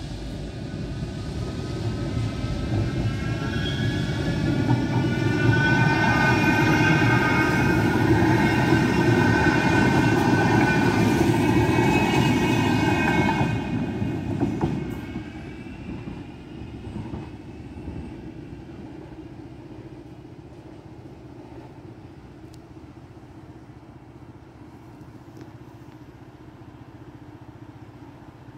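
A train passing through a level crossing: its rumble builds up, is loudest for several seconds with a high whine over it, then drops away sharply about halfway through and fades.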